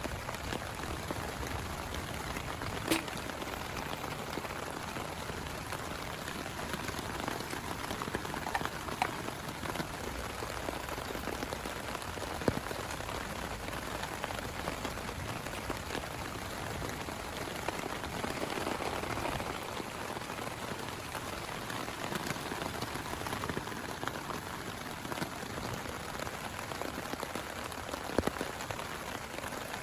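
Steady heavy rain falling, with a few sharp, louder drops tapping out above it now and then.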